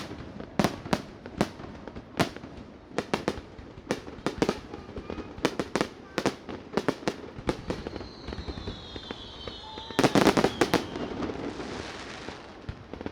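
Aerial fireworks bursting in an irregular run of sharp bangs. A few falling whistles come through the middle. About ten seconds in, a dense cluster of loud bangs is followed by a crackling hiss that fades away.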